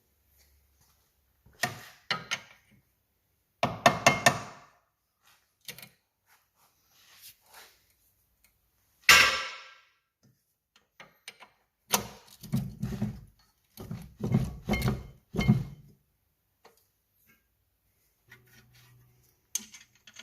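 Metal tools and parts knocking and clanking in irregular bursts during shock absorber work, with a sharper clatter near the middle and a run of heavier knocks toward the end.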